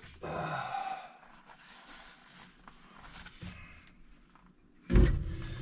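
Fabric rustling as a seam is opened by hand, then a few faint clicks. About five seconds in a loud thump is followed by the steady hum of the industrial sewing machine's electric motor.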